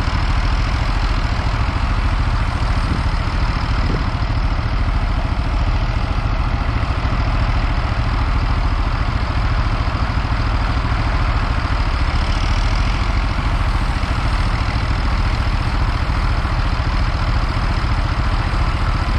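Steady, loud running of farm machinery: a tractor driving a grain cart's unloading auger as it fills a semi with shelled corn.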